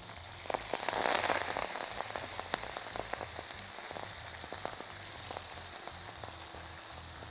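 Chopped leafy greens dropping into hot frying oil in a pan, sizzling with sharp spattering crackles. It is loudest about a second in, then settles to a softer sizzle with scattered pops.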